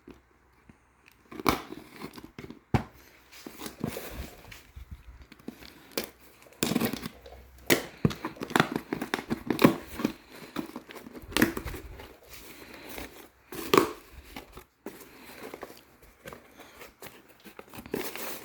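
Packaging being opened by hand: irregular crinkling, rustling and tearing sounds.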